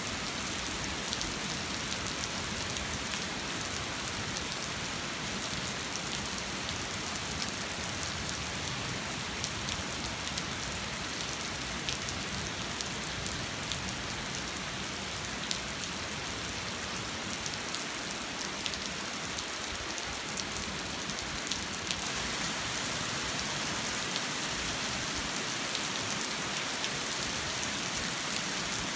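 Steady rain pattering, with a dense spatter of individual drop ticks over a constant hiss.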